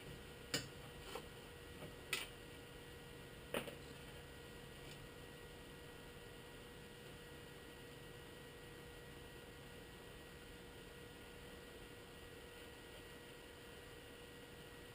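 Faint steady electrical hum, with four short sharp clicks in the first four seconds and then only the hum.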